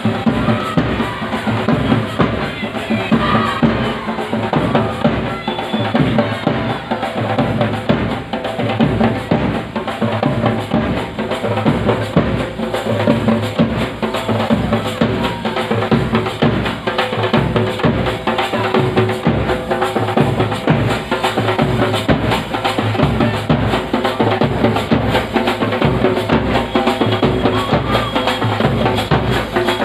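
Loud, continuous music driven by heavy, fast drum beats with a strong bass drum, running without a break.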